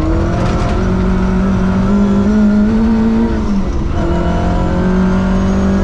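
Ford Escort Mexico rally car's engine, heard from inside the cabin, pulling at high revs with a steady high note. About three and a half seconds in it dips briefly, then climbs and holds again, over gravel and road noise.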